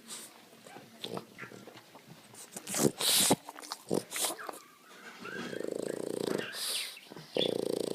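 Boston terrier snoring: long, buzzy, rattling snores in the second half, after a loud, sharp rush of air about three seconds in.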